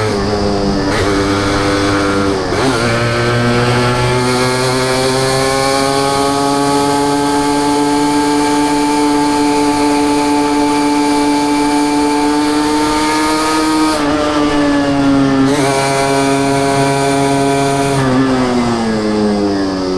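Two-stroke Suzuki WOLF125 motorcycle engine and exhaust while riding. The engine note falls sharply about two and a half seconds in, climbs slowly for about ten seconds, then drops in steps near the end as the throttle or gear changes.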